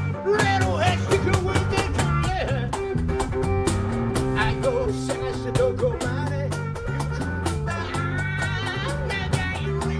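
Band music in an instrumental passage: guitar, bass and drums keeping a steady beat, with a lead line of bending, sliding notes on top.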